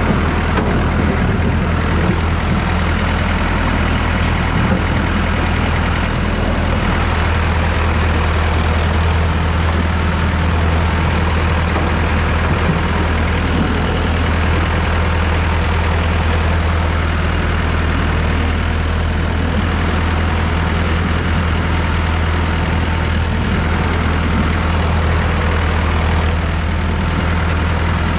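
Massey Ferguson 3165 backhoe tractor's engine running steadily, with a deep, even low hum.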